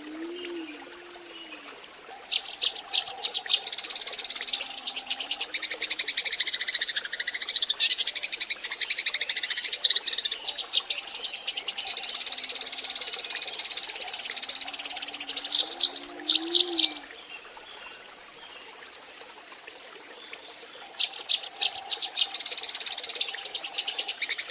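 A flock of Eurasian tree sparrows chirping rapidly in a dense chorus, in two long stretches with a lull of a few seconds between them. It is a sparrow lure call, played to draw wild sparrows in to gather.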